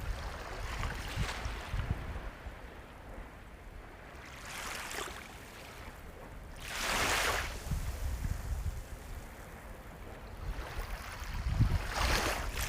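Sea waves breaking and washing in over a steady low rumble of surf. One wash is loudest about seven seconds in, and another swells near the end.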